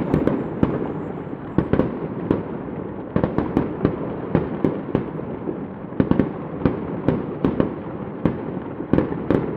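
Fireworks display: a rapid, irregular string of bangs and pops from bursting shells, several a second, over a continuous rumbling crackle.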